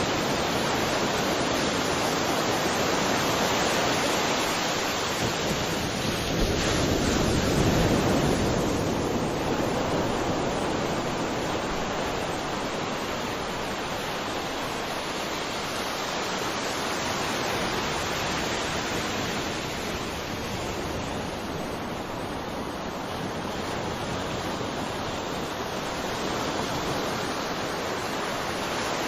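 Sea waves washing onto a shore: a steady rush of surf that swells up a few seconds in, then eases back.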